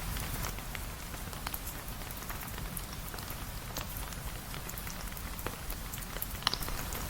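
Steady rain, an even hiss over a low rumble, with scattered sharp ticks and a louder pop about six and a half seconds in.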